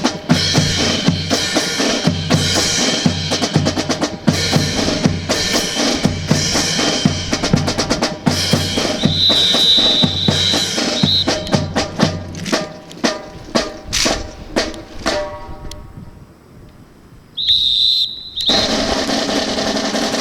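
Drum-kit percussion playing a fast, dense rhythm of snare, bass drum and rimshot strikes; about 12 seconds in the strikes space out, and they stop near 16 seconds. A brief quiet follows, then a short high steady tone, and a steady noise from near the end.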